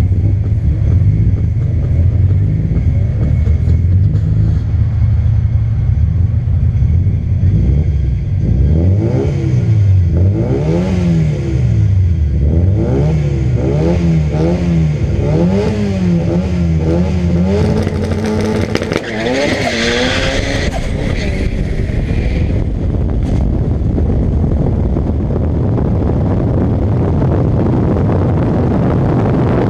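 Turbocharged drag-race car engines idling, then revved up and down over and over for about ten seconds. Near the middle the revs climb sharply with a loud hiss, and after that there is a steady, noisy rush.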